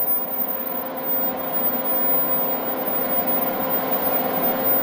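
A steady machine hum: an even rush with a few held tones, unchanging throughout.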